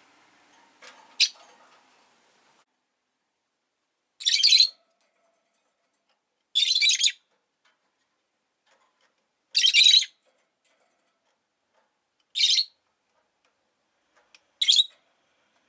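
Rosy-faced lovebird giving five loud, high, shrill calls, each about half a second long and spaced two to three seconds apart. A short click comes about a second in.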